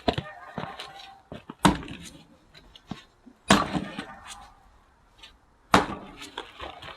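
An axe splitting firewood: three loud, sharp strikes about two seconds apart, with smaller wooden knocks between them.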